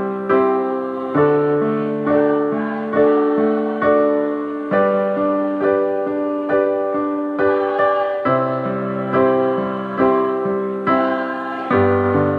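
Electronic keyboard with a piano voice playing a slow chord progression, one chord struck a little more than once a second, each fading before the next.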